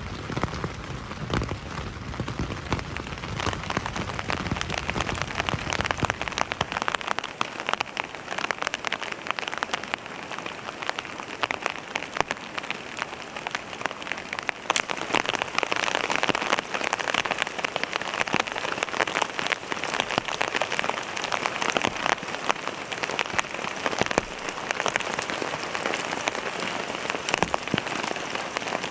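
Steady rain pattering on tent fabric, heard from inside the tent, with a low rumble underneath for about the first six seconds.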